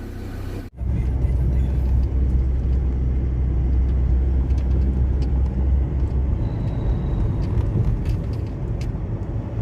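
A car on the move, with a steady low engine and road rumble that starts abruptly less than a second in.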